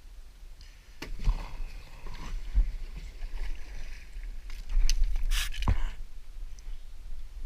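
Kayak paddle strokes splashing in the water, with a few sharp knocks along the way.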